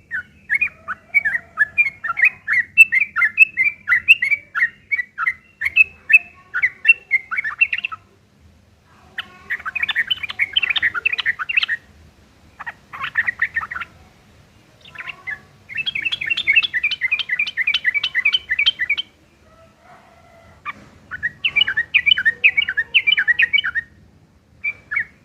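Yellow-vented bulbul (trucukan) chattering: rough, rapid strings of short notes in about six bouts, each a few seconds long, with brief pauses between them. This is the aggressive fighting-style chatter used as a lure call to make other bulbuls answer.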